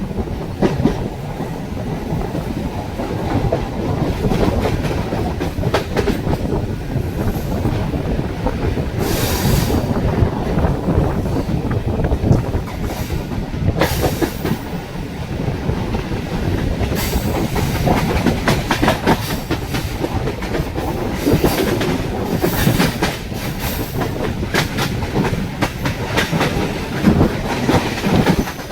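Mumbai suburban local electric train running at speed, its wheels clattering steadily over the rail joints. A few brief high, hissing squeals come in now and then.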